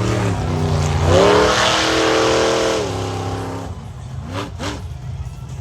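Monster truck engine revving hard. It climbs about a second in, holds high, then drops back just before three seconds and settles low, with two short blips of the throttle near the end.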